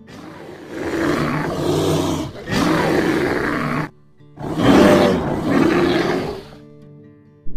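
Bear roaring: three long, rough roars in quick succession, over soft background music.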